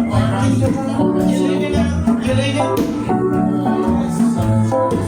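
Live band playing an instrumental passage: a bass line moving note to note under sustained chords.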